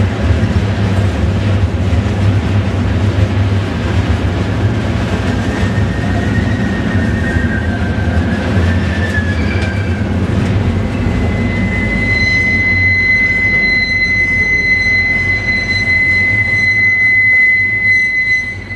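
Slow-moving train rolling past with a low, steady rumble, its steel wheels squealing against the rails. The squeal wavers in pitch around the middle, then holds as one steady high-pitched squeal from about two-thirds of the way through until it stops just before the end.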